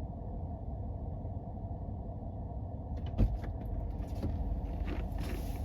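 Jeep driving slowly on a snowy back road: a steady low engine and road rumble. About three seconds in there is a thump, followed by scattered knocks and clicks as it rolls over rough ground.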